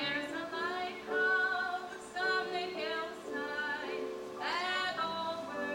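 A woman singing a gospel song with instrumental accompaniment.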